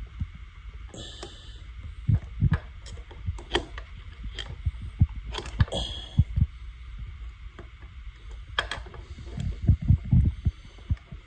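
Scattered clicks, knocks and short scrapes of hand tools working on a pit bike engine's oil filter plug, trying to crack it loose, over a low rumble of handling noise on the microphone.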